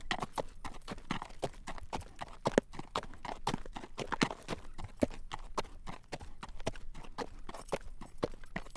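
Horse's hooves clip-clopping at a walk on a road as it draws a carriage: a steady run of sharp clacks, several a second.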